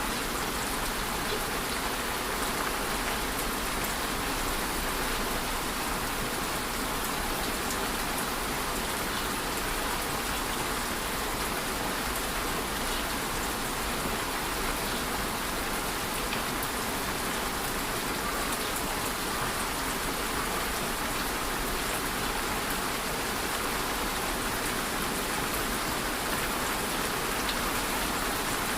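Steady rain falling and pattering on surfaces, an even hiss of many drops with no change in strength.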